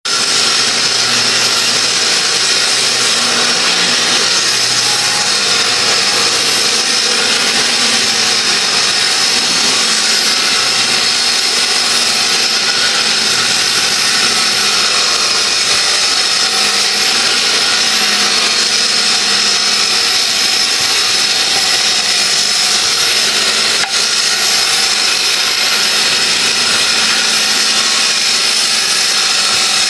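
Festool guide rail saw running steadily, its blade cutting through wood deck boards with a constant high motor whine.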